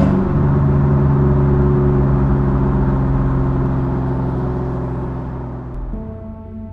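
Truck's 5.3-litre V8 with a Gibson 3-inch exhaust and big muffler, settling down from a rev just after the start into a steady deep tone that fades away. Music comes in near the end.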